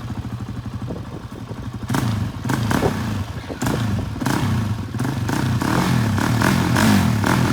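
Engine of a manual-clutch ATV idling, then revved up about two seconds in and held at high revs, with some clatter. The coach afterwards puts the held revs down to a rev limiter.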